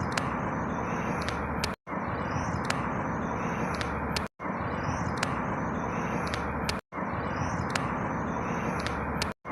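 Outdoor ambience looped about every two and a half seconds, each repeat broken by a brief dropout to silence. It is a steady background noise, with faint high bird chirps and a few small ticks repeating identically in each loop.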